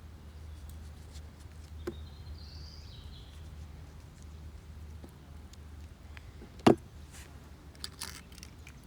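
A steady low hum with a few scattered sharp clicks and knocks, one much louder knock about two-thirds of the way through.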